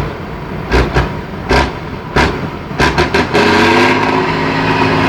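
Several sharp knocks over a rough low rumble, then about three seconds in the Tatra 813 truck's engine picks up revs and runs steadily under load.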